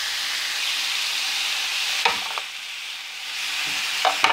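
Thin-sliced sirloin steak, red onion and mushrooms sizzling in a frying pan as they are stir-fried, with a metal spoon clicking against the pan about two seconds in and again near the end.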